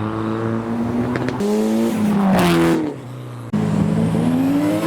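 Modified car's engine accelerating past, revs rising and falling. About three seconds in it goes briefly quieter as the throttle is lifted, then it comes back on suddenly and pulls again.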